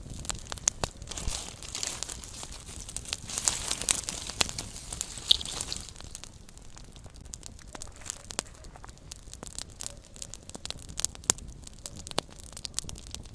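Small wood fire crackling: irregular sharp pops and snaps over a soft hiss of the flames. The hiss and pops are busier in the first half, then it settles to sparser snaps.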